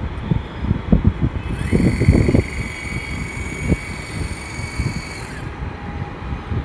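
Street traffic noise with irregular low rumbling. A high-pitched steady whine slides up about a second and a half in, holds for about four seconds, then slides back down.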